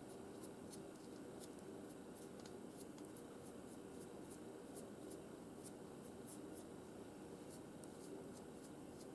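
Faint, irregular scratching of a paintbrush dragged lightly over bark, dry-brushing paint highlights onto model rock, over a steady low room hum.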